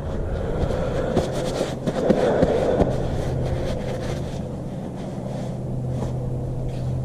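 A few light metal clinks as engine parts are handled, over a steady mechanical hum and rumble.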